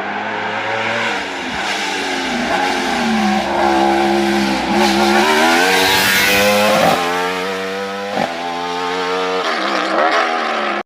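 A competition car's engine revving hard and dropping back again and again through the course, with quick gear changes. It grows louder toward the middle as the car passes, then falls away.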